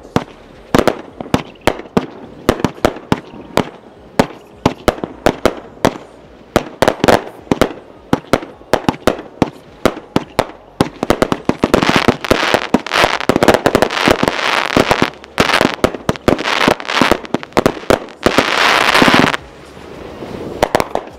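Galaxies 100-shot XL consumer aerial finale set, 1.2-inch tubes, firing: a rapid string of sharp shot reports and breaks. Dense crackling stretches come about halfway through and again near the end.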